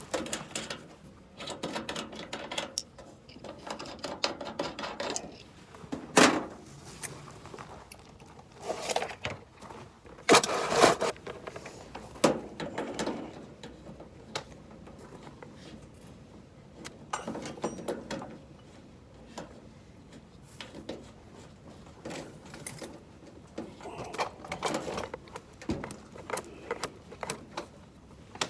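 Irregular clicks, knocks and scrapes of things being handled, loudest about six seconds in and again around ten to eleven seconds.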